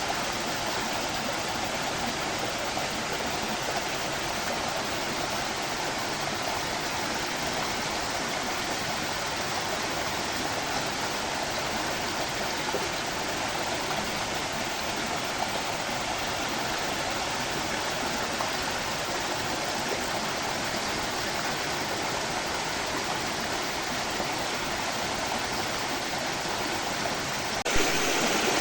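Stream water flowing in a steady rush. Near the end there is a click, and the rush jumps suddenly louder.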